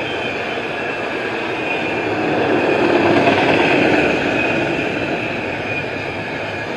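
Intermodal freight train rolling past: a steady rush of wheels on rail with a thin high squeal above it, swelling louder about two to four seconds in.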